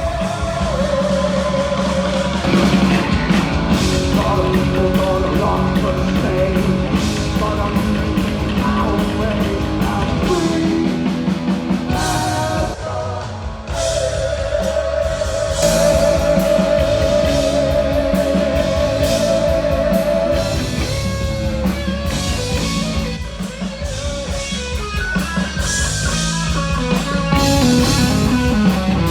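Rock band playing live with guitar and drum kit, with a long held, wavering note for several seconds about halfway through.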